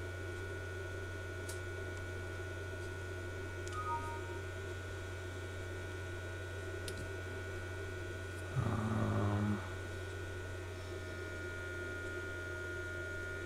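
Cooling fan of an Agilent 53150A frequency counter running with a steady hum. About two-thirds of the way through, a louder buzzy sound lasts about a second, and near the start two faint short tones sound.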